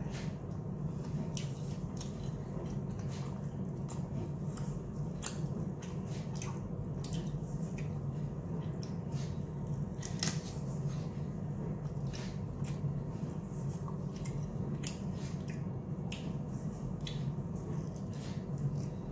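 Close-up eating sounds of a person chewing fried chicken lollipops off the bone: irregular mouth clicks and smacks, several a second, over a steady low hum.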